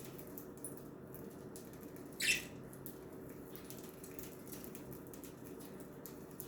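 Budgerigar giving one short, high chirp about two seconds in, over faint scattered ticks and a low steady background hum.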